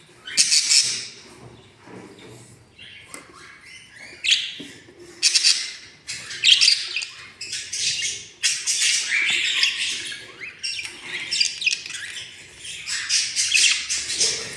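Budgerigars chirping and squawking: a series of harsh, scratchy calls, one after another with short breaks.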